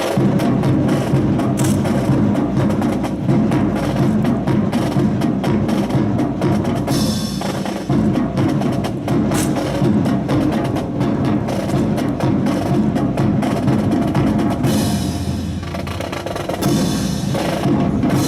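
Drill team's rifles clacking and slapping and boots stamping in quick sharp knocks during a rifle fancy drill, over music with a drum beat.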